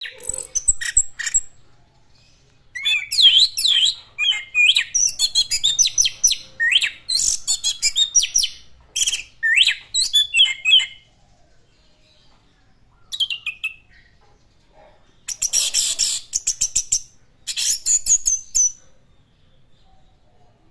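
Orange-headed thrush (anis merah) singing a loud, rapid song of varied whistled and chattering phrases, in bursts with short pauses between. The song breaks off for about two seconds past the middle, resumes in three shorter phrases, and stops near the end.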